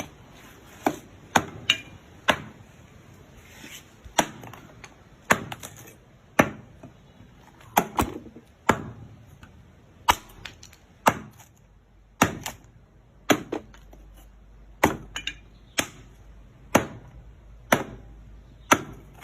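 Hand knife chopping down on metal: sharp, hard strikes at an uneven pace of roughly one a second, about nineteen in all.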